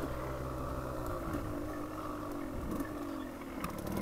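Dual-sport motorcycle engine running at low revs on a slow trail, its pitch rising and falling a little with the throttle.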